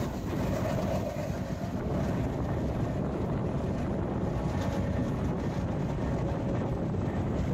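Passenger express train running at speed: a steady rumble with a faint constant hum, and wind buffeting the microphone.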